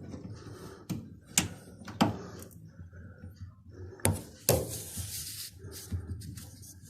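Hard knocks and clacks of a tool and parts being handled at a washing machine's drain pump while its hose clamp is undone, four sharp strokes in all, with a scraping hiss a little after the middle.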